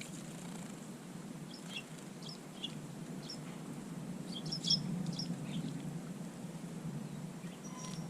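Small garden birds giving short, high chirps, scattered over a few seconds and thickest about halfway through.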